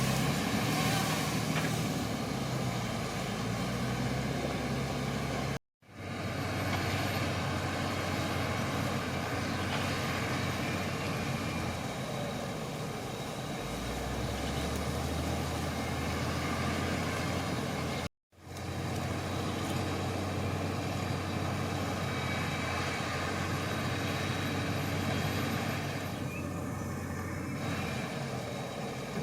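Shantui crawler bulldozer's diesel engine running steadily, with a low hum. The sound drops out abruptly into silence twice, for a split second each time, about a fifth and about three-fifths of the way through.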